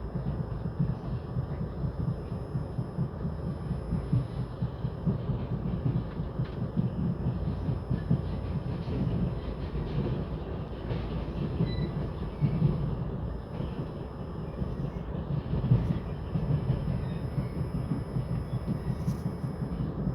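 Passenger train pulling out of a station, a steady low rumble of the locomotive and the wheels on the rails.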